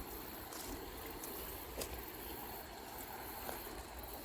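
Steady rush of flowing creek water, with a few faint clicks and knocks.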